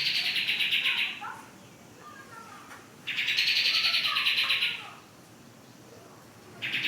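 Kapas tembak songbird singing: fast, rattling high-pitched trills about a second and a half long, one ending about a second in, another from about three seconds to nearly five, and a third starting at the very end, with softer gliding notes between them.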